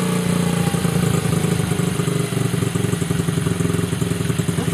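Small motorbike engine idling steadily with an even, rapid firing beat.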